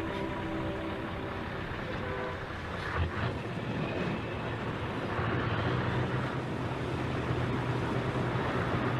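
Vehicle engine running with a steady low hum and rushing road noise, getting a little louder about halfway through.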